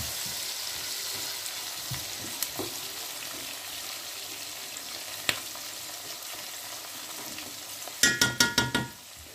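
Onions, curry leaves and whole spices sizzling steadily in hot oil and ghee in an aluminium pot, with a wooden spoon stirring through them and a few single clicks. About eight seconds in comes a quick run of about six sharp ringing knocks, the loudest sound.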